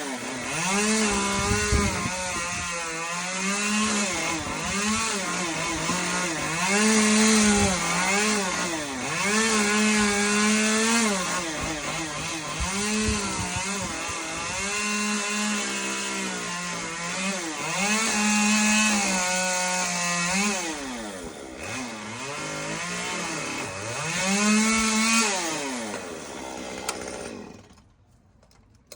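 Chainsaw cutting Canary palm fronds, its engine revving up and falling back to idle again and again, then stopping shortly before the end.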